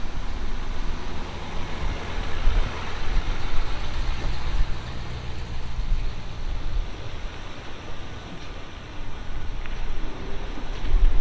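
Automatic drive-through car wash working over a Ford F450 dually pickup: steady rushing spray and machinery noise over a low rumble.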